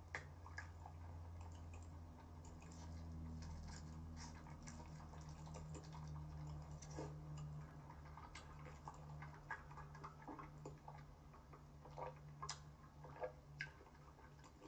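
Faint eating sounds from a person eating noodles: scattered small clicks and mouth sounds of chewing, a few sharper ones near the end, over a low steady hum.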